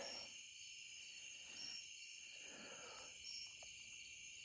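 Faint evening chorus of insects: a steady high-pitched buzz, with a short higher chirp repeating about every second and a half. There is also soft breathing and a few light rustles.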